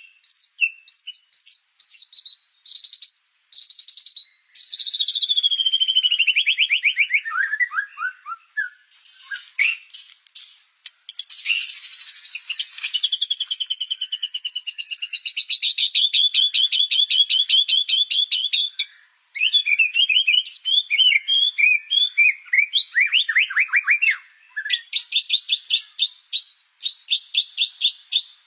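White-rumped shama (murai batu) singing a long, varied song of clear whistles, fast rapid-fire note runs and falling sweeps, with only brief pauses between phrases.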